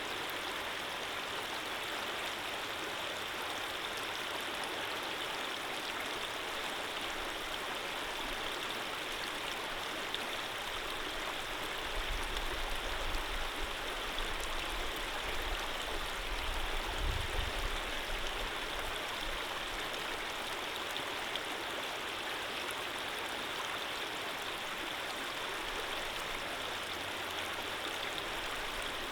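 Stream water flowing steadily: an even, unbroken rush. A low rumble rises under it for several seconds around the middle.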